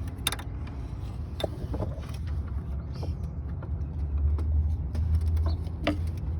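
Hand tools working on 10 mm bolts in an engine bay: a few scattered metal clicks and knocks at uneven intervals, over a steady low rumble.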